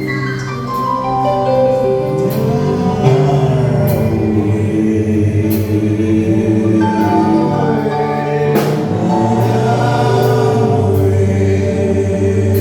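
Gospel worship song: choir singing held notes over instrumental accompaniment.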